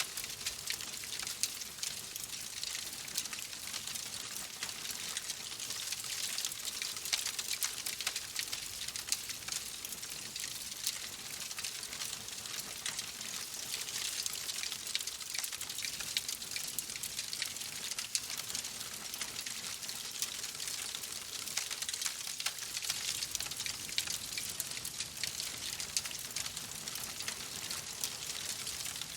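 Wood fire crackling, with many small pops and snaps over a steady hiss.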